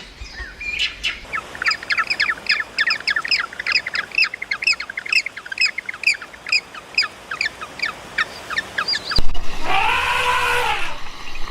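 A bird chirping in a quick, even run of short notes, about four a second. About nine seconds in it cuts to a loud, drawn-out animal call whose pitch rises and then falls.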